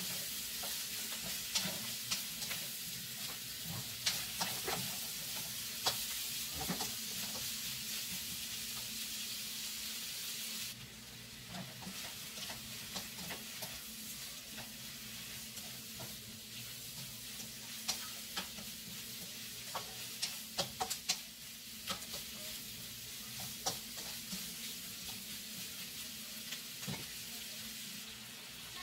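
Diced sausage and onions frying and sizzling in a nonstick wok while a spatula stirs them, scraping and tapping against the pan in many short clicks. The sizzle gets quieter about ten seconds in.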